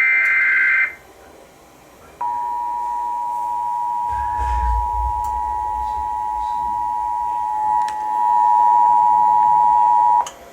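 Emergency Alert System signal: a burst of SAME header data tones, then after a short gap the two-tone EAS attention signal (853 and 960 Hz together) held steady for about eight seconds before cutting off, announcing a special marine warning. A faint low bump sits under the tone a few seconds in.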